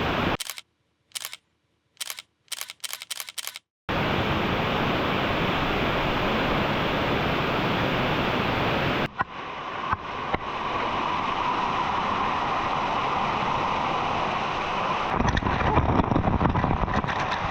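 Steady roar of a waterfall, broken near the start by a few seconds of silence with a quick series of camera-shutter clicks. About nine seconds in it cuts to a different rushing-water sound, which grows louder and more uneven near the end.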